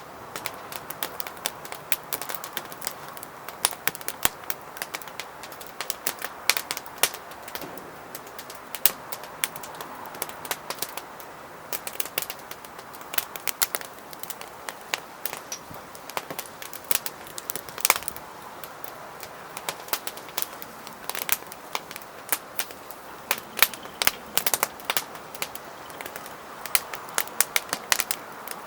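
Wood fire burning in a Solotour fire pit, crackling with frequent irregular sharp pops and snaps over a steady hiss.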